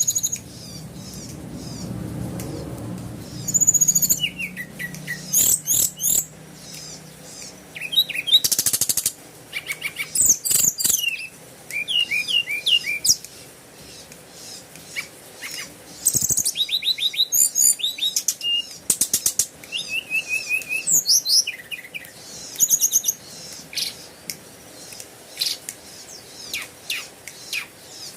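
Small birds chirping and singing in a busy run of varied high calls, with trills and quick repeated notes that overlap one another. A faint low hum sits underneath in the first few seconds.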